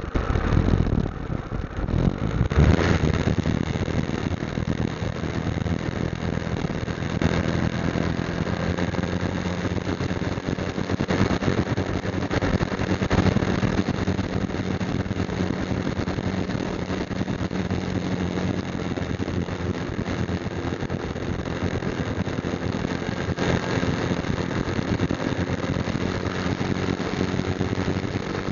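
Motorcycle engine running steadily while riding, with a constant low engine tone under road noise; a brief louder surge comes about two to three seconds in.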